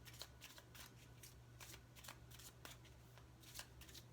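Oracle cards being shuffled by hand: faint, irregular soft card clicks and slaps, several a second.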